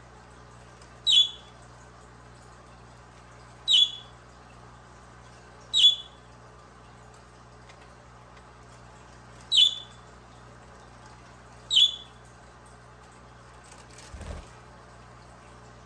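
Budgerigar giving single short, sharp calls, five of them a few seconds apart, with a soft thump near the end.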